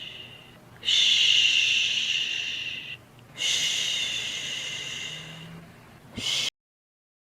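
A person shushing a soothing 'shhh', as used to calm a baby to sleep. It comes as repeated long breaths, two long shushes of about two seconds each fading away, then a short one, after which the sound cuts off to silence.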